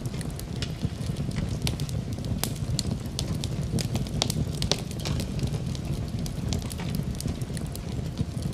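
Wood fire burning in a fireplace: a steady low rumble with frequent sharp crackles and pops at irregular intervals.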